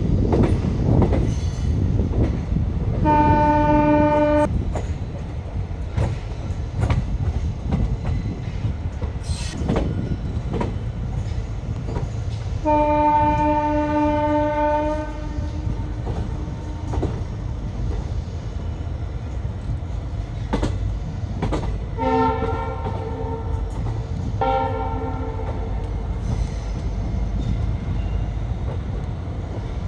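Indian train running with a steady low rumble, its horn sounding four times: a short blast about three seconds in, a longer one a few seconds before the middle, and two short blasts of a lower, different-sounding horn near the end.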